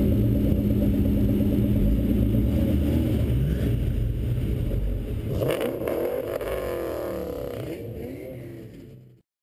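Car engines: a steady engine note at first, then several cars revving with rising and falling pitches as they move past. The sound fades out near the end.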